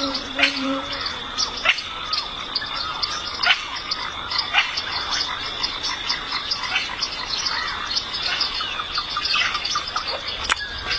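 Wild nature chorus: a steady high-pitched insect drone with many short chirps and calls scattered over it, some of them from frogs or birds. A low hum stops about a second in.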